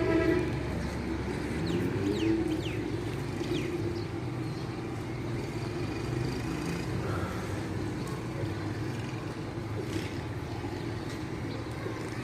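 Steady rumble of distant city traffic, with a few short, high, falling chirps in the first three seconds or so.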